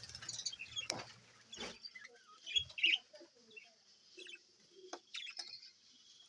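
A colony of budgerigars chirping and chattering in short, scattered high calls, with a few sharp clicks in between.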